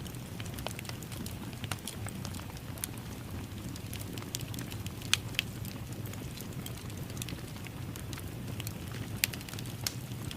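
Wood fire in a fireplace crackling steadily over a low rumble of flame, with irregular sharp pops. Two louder snaps come about five and nine seconds in.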